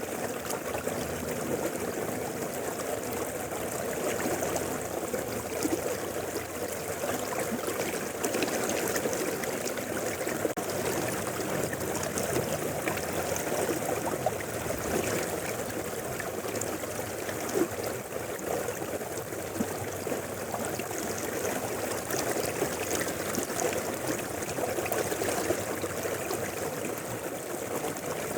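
Shallow river flowing steadily over rocks, a continuous rushing and babbling of water.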